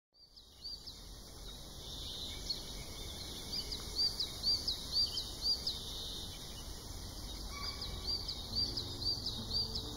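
Small bird chirping: runs of short, high chirps about two a second, in two bouts, over a steady background hiss.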